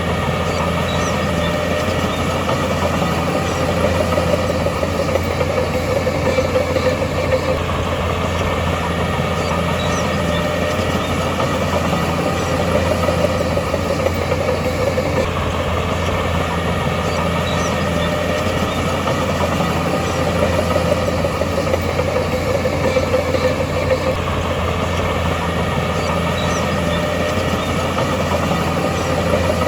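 Heavy earthmoving machinery's diesel engine running steadily at a constant pace, with a strong low drone.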